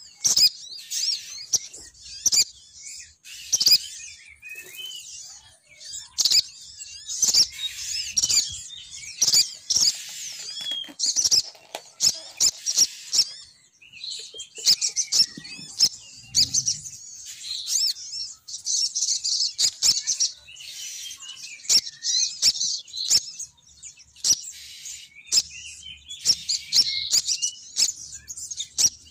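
Sogon bird lure call: rapid high-pitched chirping and twittering in bursts of a few seconds, the female's call used to draw males in. Frequent sharp clicks run through it.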